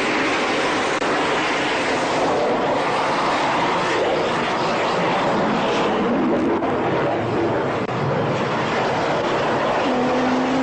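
A fixed-wing aircraft engine giving a loud, steady rush with no breaks. A short rising tone comes in near the end.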